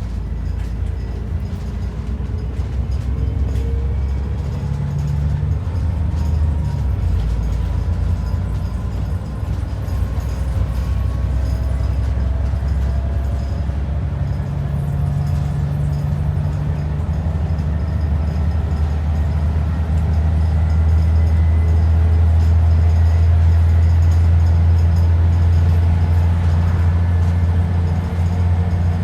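ADL Enviro 400 double-decker bus under way, heard on board: a steady diesel engine drone with a transmission whine that rises slowly in pitch as the bus gathers speed, growing louder about two-thirds of the way through.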